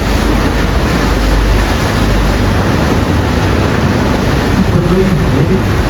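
Wind blowing hard on the microphone over the steady rush of sea water past a moving tour boat, with a low engine rumble underneath.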